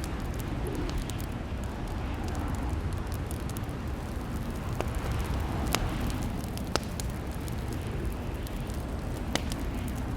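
Wood fire in a fireplace crackling: a steady low rumble with scattered sharp pops, a few standing out clearly from about halfway through.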